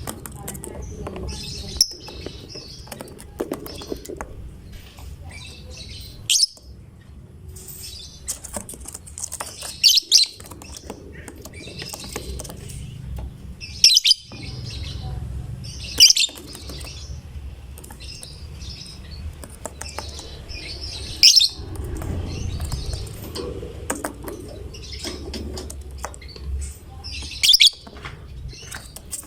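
Lovebird chattering without a break in a fast, high twitter, punctuated every few seconds by short, loud, sharp shrieks.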